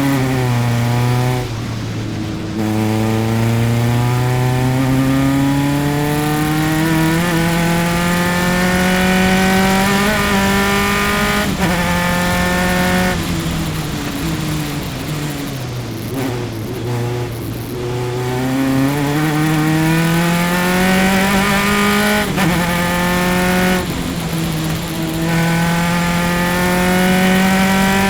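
Single-seater race car's engine at racing speed, heard onboard: revs climb steadily through the gears with quick upshifts about two, eleven and twenty-two seconds in. Mid-way the revs fall with a few short blips as it downshifts into a corner, then climb again.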